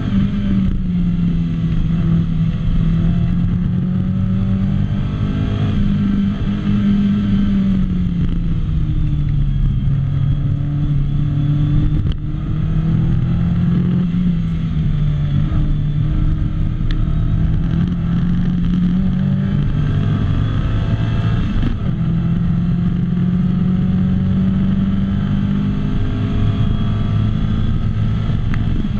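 Lotus Elise's four-cylinder engine at race pace, heard from inside the cockpit, its pitch climbing and falling as the car accelerates, shifts gear and slows for corners.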